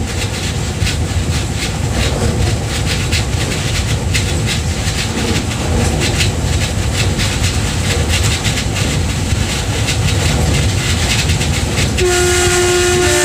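Oscar H set electric train running over a steel truss rail bridge, a steady rumble of wheels on rails with frequent clicking. Near the end the train's horn sounds and is held.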